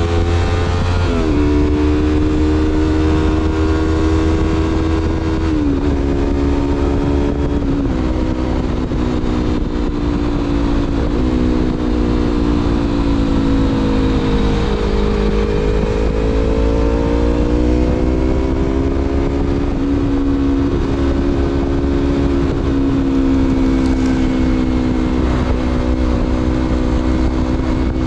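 2016 Yamaha MT-25's parallel-twin engine through a Shadux Viper Pro Race aftermarket exhaust, ridden under way. It shifts up through the gears, the note dropping sharply three times in the first eight seconds, then sags and climbs again with speed before holding steady.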